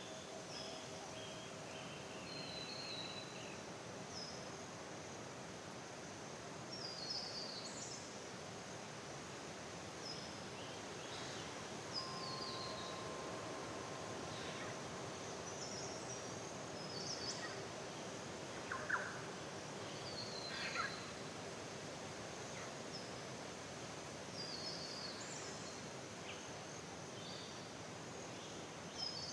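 Forest ambience: many short songbird chirps and quick descending trills scattered throughout, over a steady background hiss.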